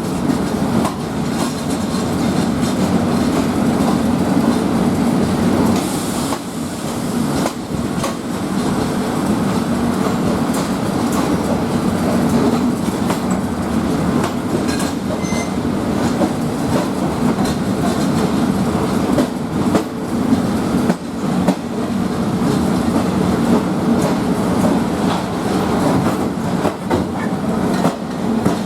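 State Railway of Thailand train running on rails: a steady rumble with scattered clicks of the wheels over rail joints.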